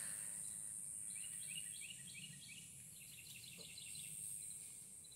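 Faint bird song: a quick run of short, rising notes repeated for a couple of seconds, starting about a second in. Under it is a steady high insect buzz.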